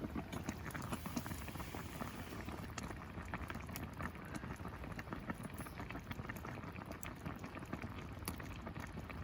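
Pot of food bubbling over a campfire, with a steady stream of small pops and crackles.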